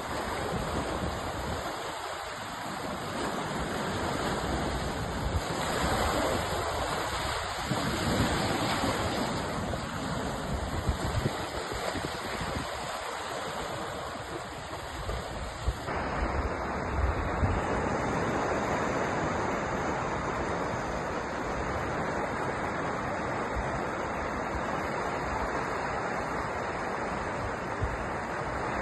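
Sea surf: waves breaking and washing in a steady hiss that swells and eases. About halfway through the sound changes abruptly to a smoother, more even wash.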